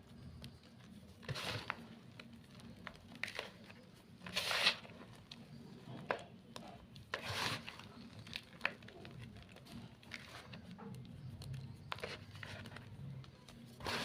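Gym chalk being crushed, a series of separate short crunches with small crackly clicks between them, the loudest about four and a half and seven and a half seconds in.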